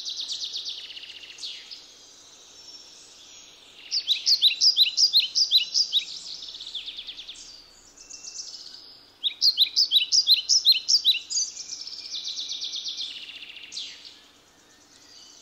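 A songbird singing: high chirps and trills, with two louder runs of quick repeated notes, about five or six a second, starting about four and about nine seconds in.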